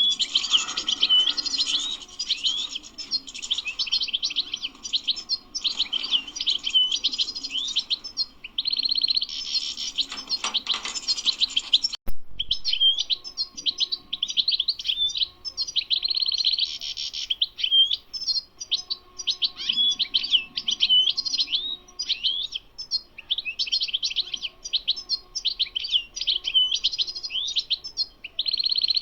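European goldfinch singing: a nearly unbroken run of rapid twittering and trilled phrases, interrupted by a sharp click and a brief gap about twelve seconds in.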